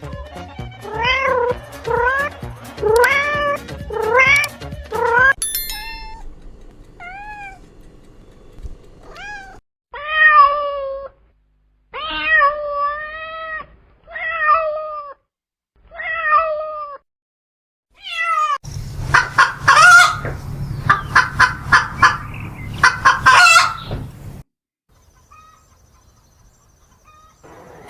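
Cats meowing: first a quick run of short repeated meows, then single meows about a second long, a second or two apart. Near the end comes a loud stretch of rapid, harsh pulsing animal calls lasting about five seconds, then it goes nearly quiet.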